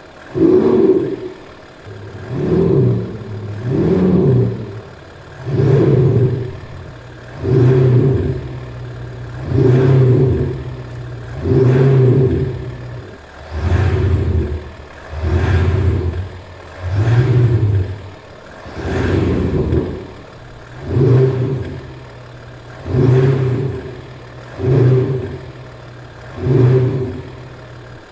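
BMW X3 M40d's straight-six diesel revved in short blips about every two seconds, each rising and falling back to idle. Its exhaust note is given a sporty sound by a Maxhaust Active Sound Booster, which plays a synthesized engine sound electronically.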